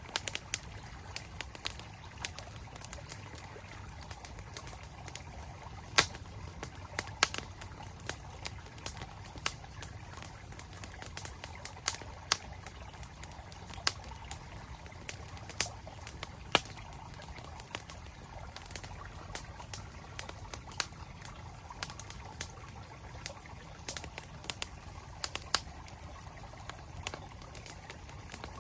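Campfire crackling with sharp, irregular pops, the loudest about six seconds in, over the steady rush of a flowing mountain stream.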